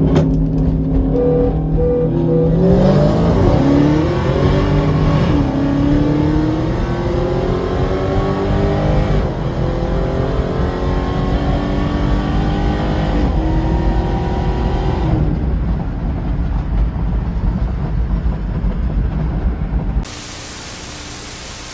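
Supercharged 6.2-litre Hellcat V8 in a Dodge Magnum accelerating through the gears. The pitch climbs and drops back at each of three upshifts, then runs steadier. Near the end it cuts suddenly to a steady hiss.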